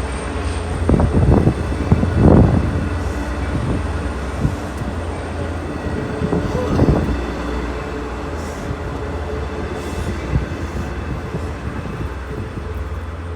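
Train running on the rails: a steady low rumble with a few louder clanks and rattles in the first couple of seconds and again about seven seconds in.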